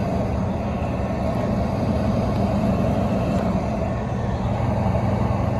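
Commercial kitchen equipment running with a steady rushing noise over a low hum.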